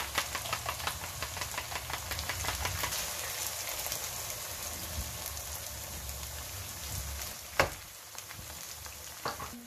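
Chicken pieces and fried onions sizzling and crackling in hot oil in a non-stick wok, with yogurt going in over a lowered flame. A single sharp knock comes about two-thirds of the way through.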